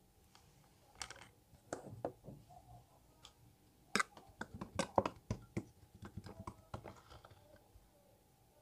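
Elmer's glue slime being squished and pressed by hand, giving a run of small uneven clicks and pops, thickest about halfway through.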